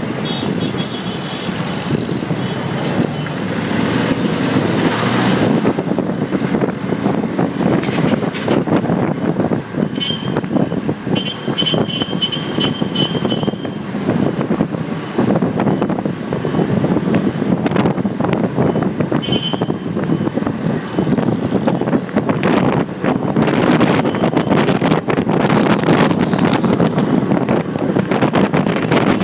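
Riding noise picked up by a phone mounted on a motorcycle: wind buffeting the microphone over the motorcycle's engine and surrounding traffic. Short high-pitched beeps sound a few times around the middle.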